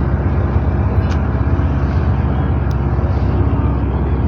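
A boat's engine running steadily at an even speed, a constant low hum.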